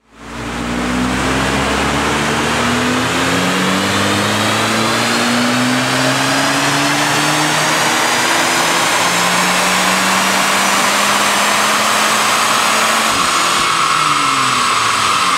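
Volkswagen Golf R Mk6's turbocharged 2.0 TSI four-cylinder at full throttle on a chassis dynamometer, through an Inoxcar cat-back exhaust, its revs climbing steadily through the pull. About thirteen seconds in the revs fall away.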